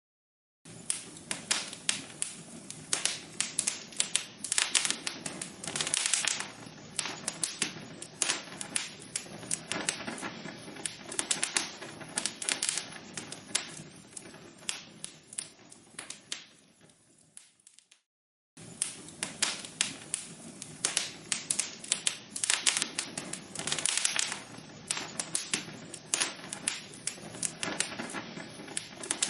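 Log fire in a fireplace crackling, with many sharp pops and snaps over a soft hiss of burning wood. It fades away about seventeen seconds in, stops for a moment, then starts again.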